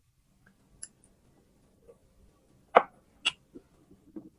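Lychee-eating sounds: a few scattered clicks and crackles of chewing and mouth sounds, the loudest nearly three seconds in, with more following near the end.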